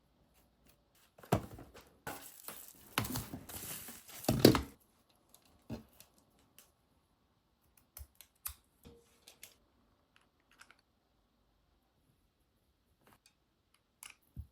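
Close-up handling noises: about three seconds of crinkling and rustling, the loudest near the end of it, followed by scattered small clicks and taps.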